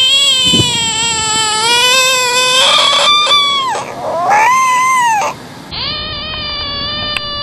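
American bullfrogs screaming: a long, high wail of about four seconds that rises near its end, a shorter cry that rises and falls, then another long steady wail. It is the frog's defensive distress call when threatened or handled.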